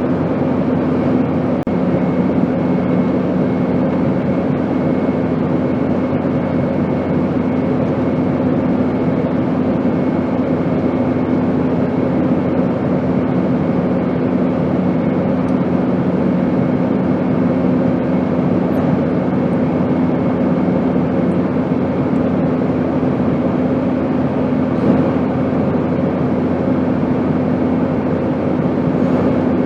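Steady airplane engine drone: an even rushing noise with a constant low hum running through it. One of the lower hum tones fades out about two-thirds of the way through.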